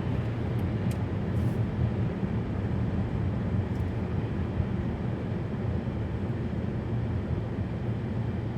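Steady road noise inside a moving car: a low rumble of engine and tyres on the road, heard in the cabin.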